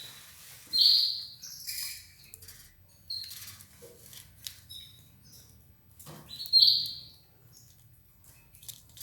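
Canary chirping: two loud, short high calls, about a second in and again near seven seconds, with softer chirps and small clicks between them.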